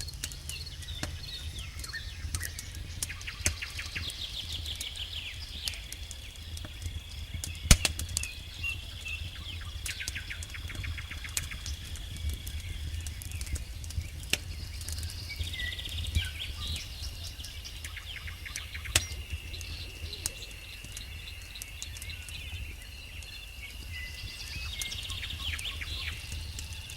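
Campfire crackling with irregular sharp pops, the loudest a little under eight seconds in, over crickets trilling steadily and chirping in rapid bursts. A low steady rumble runs underneath.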